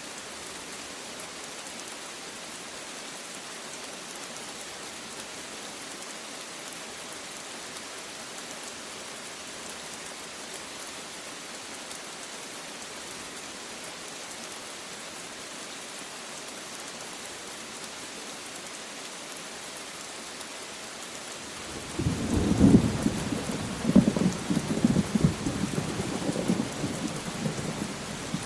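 Steady rain falling, an even hiss. About three-quarters of the way through, a thunderclap breaks in suddenly and rolls on as a low rumble, with loud cracks in its first couple of seconds.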